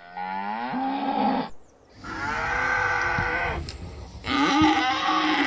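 Cow mooing: three long moos with short breaks between them.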